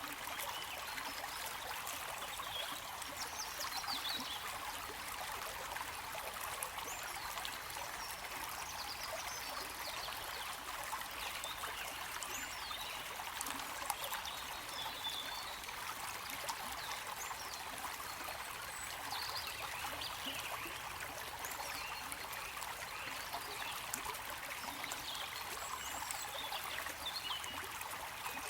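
Flowing water: a stream trickling and splashing steadily, with no pauses.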